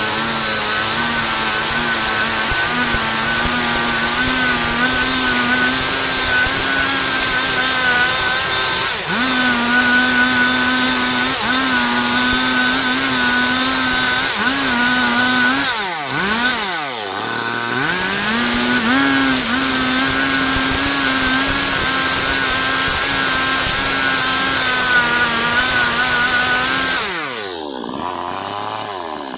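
Stihl MS 382 two-stroke chainsaw held at high revs, cutting lengthwise through a log. About 16 seconds in the revs dip and climb back up. Near the end the throttle is let off and the engine drops away.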